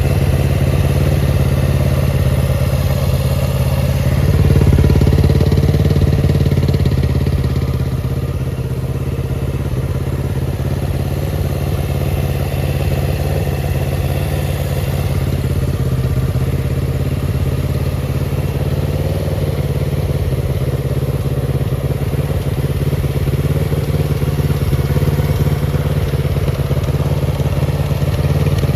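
Kawasaki Z250FT's 250 cc parallel-twin engine idling through an aftermarket muffler. It picks up briefly about four seconds in, then settles back to a steady idle.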